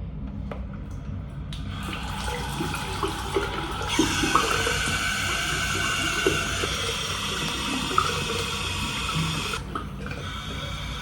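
Shower water running steadily. The spray starts about a second and a half in, strengthens about four seconds in, and drops out for a moment near the end before running again.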